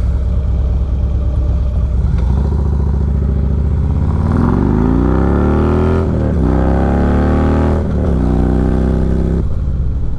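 Harley-Davidson Road King V-twin running through an Ultima Dominator 2-into-1 exhaust while riding. It runs steadily for a few seconds, then accelerates with rising pitch, with two short dips where it shifts up, before easing off near the end.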